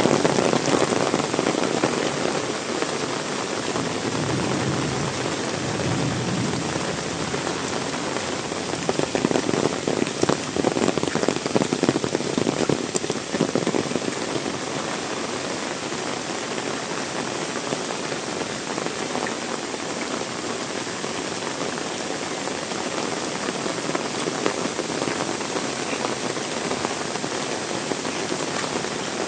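Heavy rain pouring and splashing on surfaces, a dense steady patter with many fine drop ticks, heavier in the first half and settling to an even level after about fifteen seconds.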